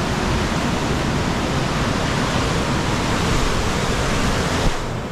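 Steady rush of a waterfall in high flood flow after heavy rain, loud and even. There is a brief bump near the end, after which the sound is slightly duller.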